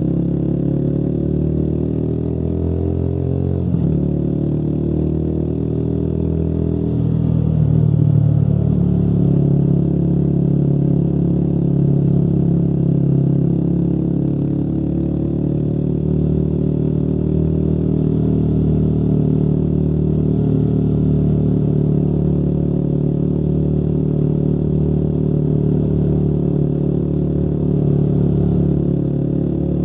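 Motorcycle engine running on the move, its note rising over the first few seconds and shifting twice in the first nine seconds, then holding steady.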